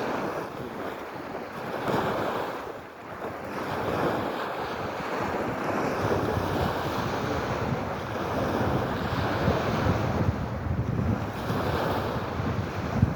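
Sea waves washing in, swelling and ebbing over several seconds, with wind rumbling on the microphone.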